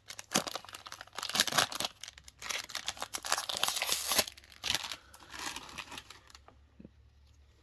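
Foil wrapper of a Pokémon trading-card booster pack being torn open and crinkled: a run of dense rustling and crinkling for about five seconds that dies away near the end.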